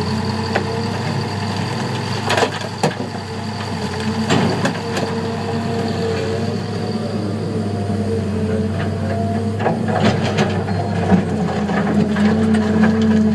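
Heavy diesel engines of a Cat 325 excavator and a Terex TS14 scraper running steadily, with scattered clanks and knocks as sandstone is loaded, a few near the middle and a cluster near the end.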